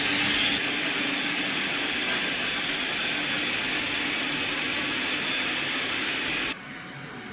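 iRobot Roomba Plus 405 Combo's motor running steadily with a hiss and a low hum, easing slightly about half a second in, then dropping suddenly to a much quieter steady run near the end.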